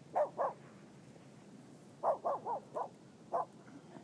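A dog barking: two barks, then a run of four about two seconds in, and one more near the end.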